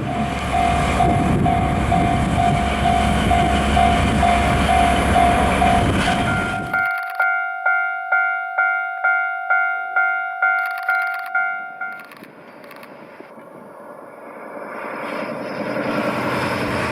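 Railway level-crossing bell dinging about twice a second in two pitches, first over the loud rumble of a passing train, then alone once the rumble cuts off. The bell stops about twelve seconds in, and a softer rushing noise swells after it.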